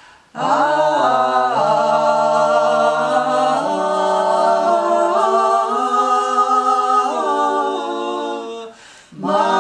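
Unaccompanied male and female voices singing in close three-part harmony, holding long notes through a slow series of chord changes. There is a brief breath pause just before the end.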